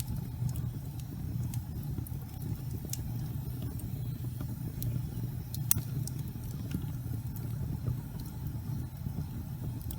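Gas fireplace flames burning with a steady low rumble and sparse small crackles and ticks, one sharper crack a little before the middle.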